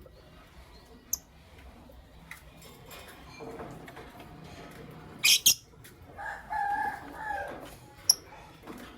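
Lovebirds chirping: scattered sharp, high chirps, the loudest a quick pair about five seconds in, followed by a longer, lower-pitched call of over a second.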